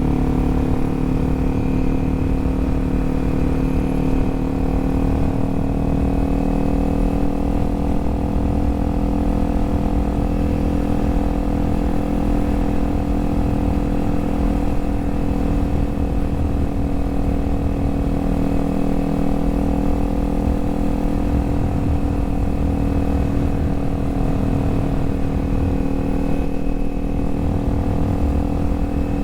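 Kawasaki Z400's parallel-twin engine running at a steady cruising speed, its note holding nearly constant with only slight changes in pitch.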